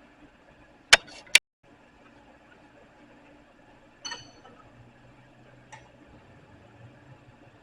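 Metal striking metal: two sharp clicks about a second in, then a single clink near four seconds that rings briefly, with a faint tick near six seconds.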